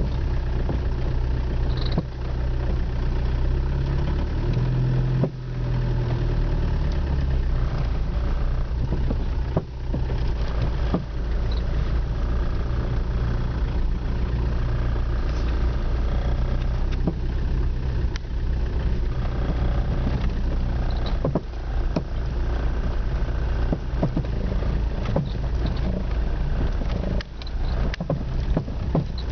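Car engine running steadily, with irregular sharp knocks from the front suspension, the sign of a fault somewhere in the front suspension.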